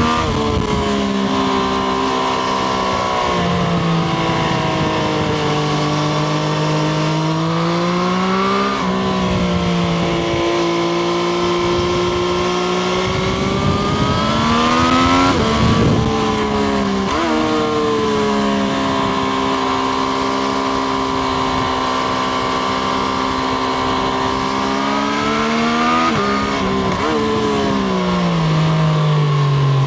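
Triumph Street Triple RS's three-cylinder engine pulling under acceleration, its pitch climbing several times and falling in quick steps at gear changes, then easing off near the end, with wind rush over it.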